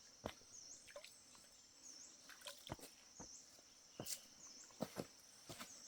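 Quiet outdoor ambience. A faint high chirp repeats about every second and a half, over scattered soft clicks and knocks.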